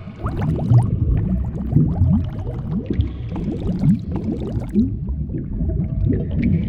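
Bubbling, gurgling water sound effect, a dense stream of quick rising bubble blips over a low rumble.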